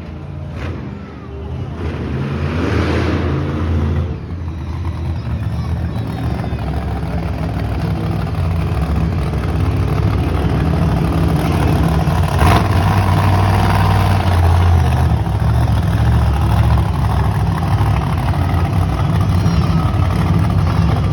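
Monster truck engine running and revving, growing steadily louder over the first ten seconds and then holding loud and deep. There is a brief sharp crack about halfway through.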